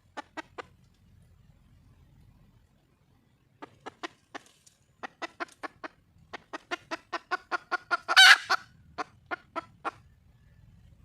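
Wild junglefowl hen clucking: three quick clucks, then a run of clucks that speeds up into one loud, drawn-out squawk about eight seconds in, followed by a few more clucks. It is the hen's call for a mate.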